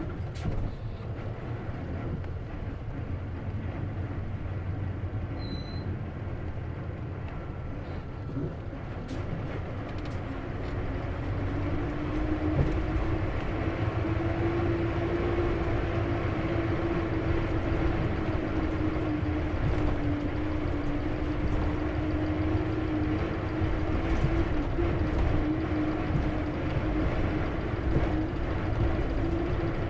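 Isuzu KC-LV380N city bus with a manual transmission under way: a low engine rumble, joined about twelve seconds in by a steady whine that climbs slightly in pitch as the bus gets louder. The whine fits the abnormal noise this bus is known for, which the owner suspects is a symptom of manual-transmission buses.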